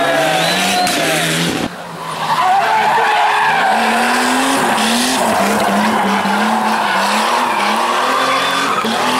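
Rally car engine driven hard, its pitch climbing and falling back over and over in quick succession. The sound breaks off abruptly about two seconds in and resumes with a different car run.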